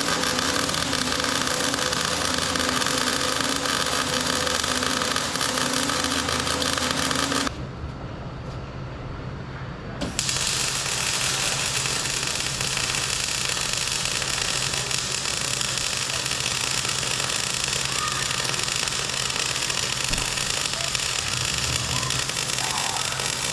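Steady, harsh noise of a power tool at work, breaking off for about two and a half seconds roughly a third of the way in, then running on.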